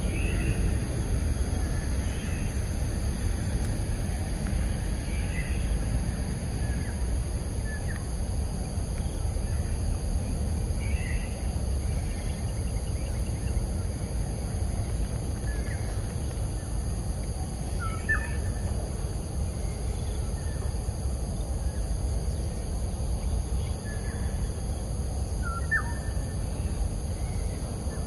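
Outdoor nature-park ambience: scattered short bird chirps, several seconds apart, over a steady low rumble.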